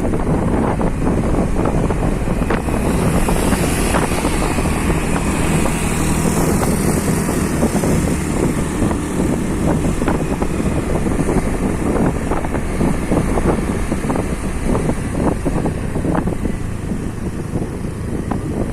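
Wind buffeting the microphone on a moving motorcycle, with engine and road noise underneath, steady and loud throughout.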